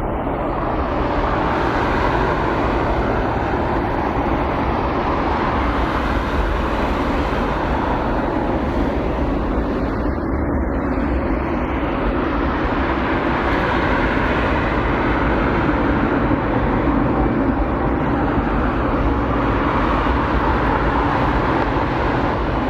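Jet airliner engines at takeoff thrust: a loud, steady rushing noise with a deep rumble underneath.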